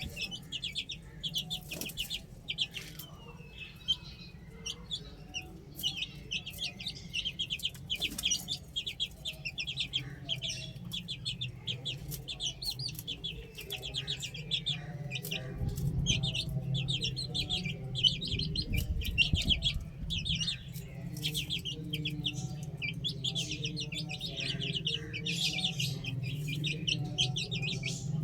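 A brood of baby chicks peeping: many short, high peeps in quick succession, with scattered lower calls mixed in. A steady low hum runs underneath and swells about halfway through.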